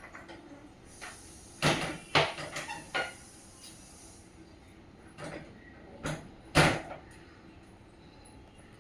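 Irregular sharp knocks and rattles, about six of them, of a budgie cage or its fittings being knocked, with the loudest a little past the middle.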